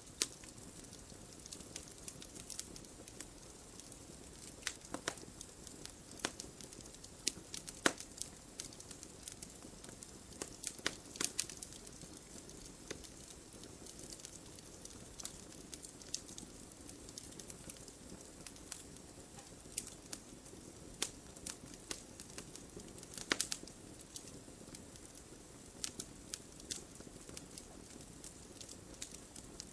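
Wood fire burning in a fireplace: a soft steady hiss with irregular crackles and sharp pops of burning logs, a few louder snaps scattered through.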